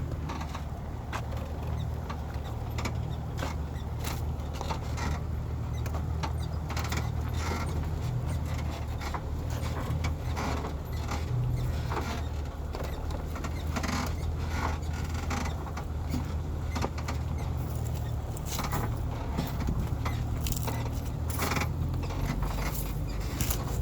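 Heavy logging truck's engine running at low revs, a steady low drone, with frequent clicks, knocks and creaks from the truck as it works along.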